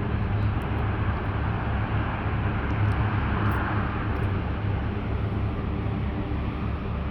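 Engines of a C-130 Hercules, four turboprops, heard from a distance as a steady, pretty loud engine noise with a low hum underneath.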